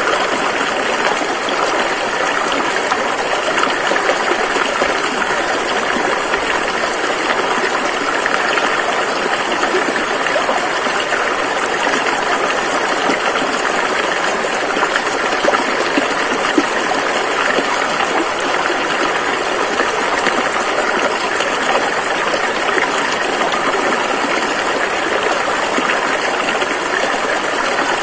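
River water rushing and splashing over rocks, a steady, dense hiss with no letup.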